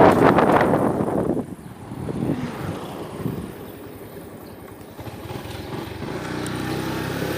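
A motor vehicle's engine running. A loud rush of noise comes in the first second and a half, and an engine note rises in pitch near the end.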